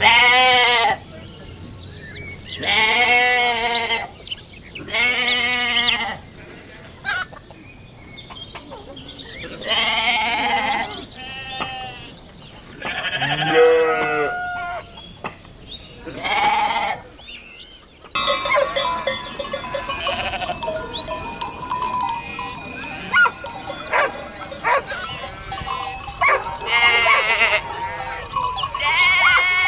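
Sheep bleating, a series of single bleats each about a second long. About 18 seconds in the sound changes abruptly to a busier flock background with steady ringing tones, with more bleats near the end.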